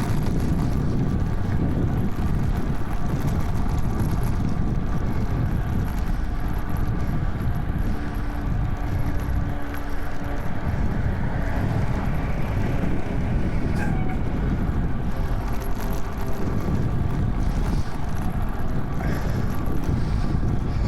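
Steady wind rumble on the microphone of a camera carried on a moving bicycle during a ride.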